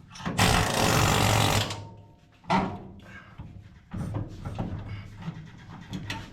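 A power tool runs in one burst of about a second and a half on the truck's rear suspension hardware. A sharp knock follows, then scattered small metal clicks.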